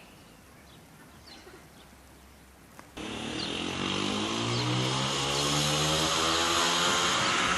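Faint bird chirps, then, from an abrupt cut about three seconds in, a loud motor engine running with its pitch slowly rising, birds still chirping faintly over it.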